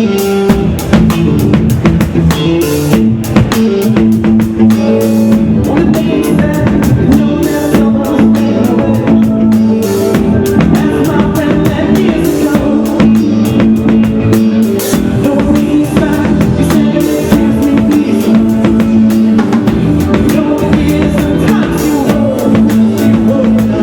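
Live rock band playing: drum kit keeping a steady beat under electric and bass guitar, with singing.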